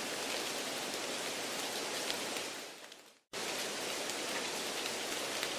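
Steady rain-like hiss of a background noise track laid over the test audio to mimic a noisy exam room. It fades out about two and a half seconds in, drops to silence for a moment, then cuts back in abruptly at the same level.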